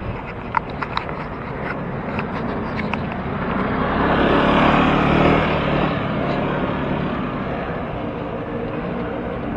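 Street traffic heard from a moving bicycle: a steady rush of road noise, with a motor vehicle's engine swelling loudest about four to six seconds in, then fading. A few light clicks in the first three seconds.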